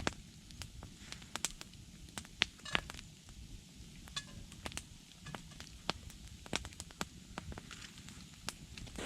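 Wood campfire crackling, with sharp, irregular pops and snaps over a low rumble.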